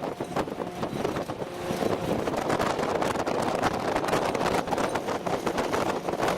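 Military convoy vehicle driving: steady engine and road rumble with wind on the microphone and frequent small rattles.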